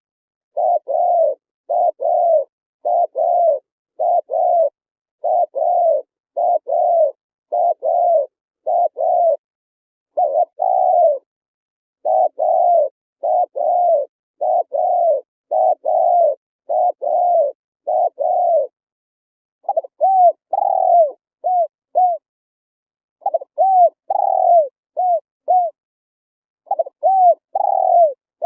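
Spotted dove cooing over and over, a steady series of short, soft coos about two a second. From about two-thirds of the way in the coos turn shorter and drop in pitch, coming in groups of three or four with pauses between.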